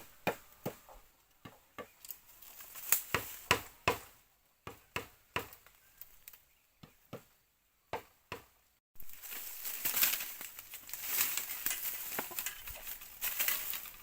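A run of sharp, irregular chopping knocks, some in quick pairs. About nine seconds in, they give way to a dense crackling rustle.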